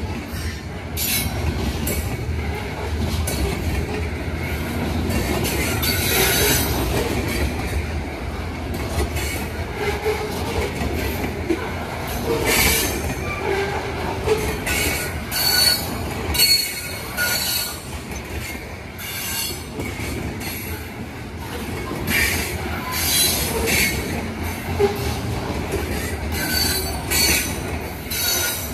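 Covered hopper cars of a freight train rolling past at close range: a steady rumble and clatter of steel wheels on the rails, with brief high-pitched wheel squeals now and then.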